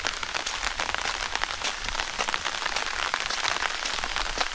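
Steady rain, heard as an even hiss thick with the fine irregular ticks of many drops.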